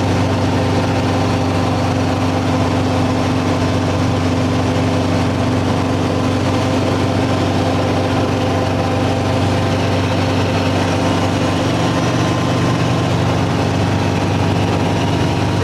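Helicopter engine and rotor running steadily in flight, a constant drone.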